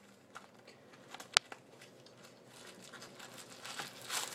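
Firework packaging being handled: a single sharp click a little over a second in, then paper or plastic rustling that grows louder toward the end.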